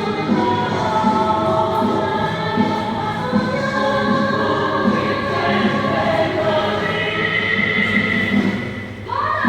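A labor song sung by a massed choir of voices over band accompaniment with a steady beat, in long held notes. Near the end the music drops briefly, then a new phrase comes in with a rising slide.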